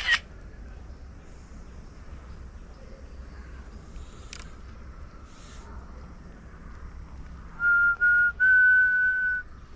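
A person whistling three steady high notes, two short ones and then one held for about a second, over faint outdoor background noise. A short sharp click comes at the very start.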